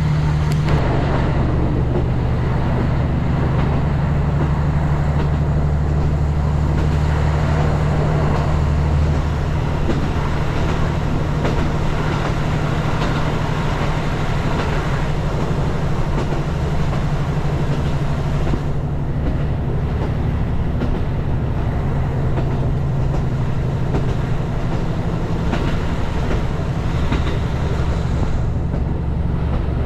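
Diesel train running, with a steady low engine drone under the noise of the wheels on the track.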